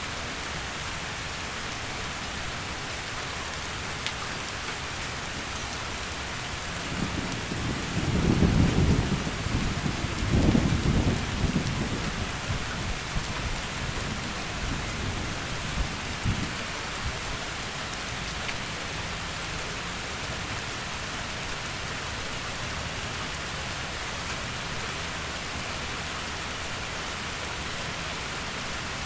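Heavy rain falling steadily, with a low roll of thunder about a quarter of the way in. The thunder swells twice and fades away by about halfway.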